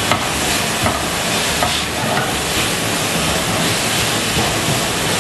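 Chicken, onion and carrot sizzling with a steady hiss in a hot frying pan as they are stirred with a silicone spatula, a splash of vinegar just added to the pan. A few light scrapes of the spatula on the pan show through.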